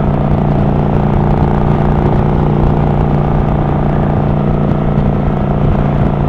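Kawasaki Vulcan 900 V-twin engine running steadily at cruising speed with an unchanging note, along with wind rush.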